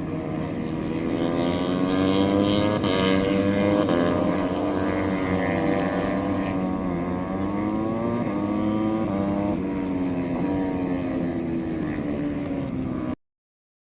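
MotoGP racing motorcycle engines heard at a distance from a hillside above the circuit, their pitch rising and falling as the bikes accelerate and shift through the corners. The sound cuts off abruptly near the end.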